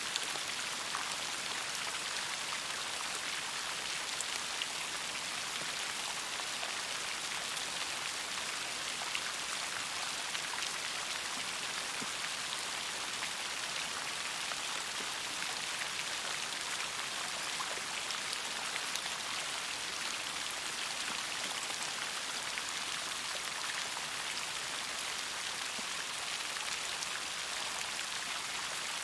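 Steady rain falling, a continuous hiss scattered with many small drop ticks.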